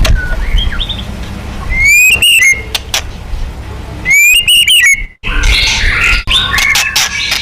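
White-rumped shama (murai batu) singing: a loud phrase of a rising whistle that breaks into a harsh rattle, given twice, with softer varied whistles and chirps between.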